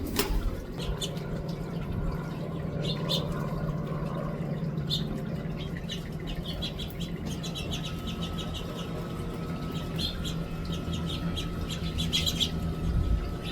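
House finches chirping in short quick series, several times over. Under them runs a steady low hum, and a thin steady tone joins about two-thirds of the way through.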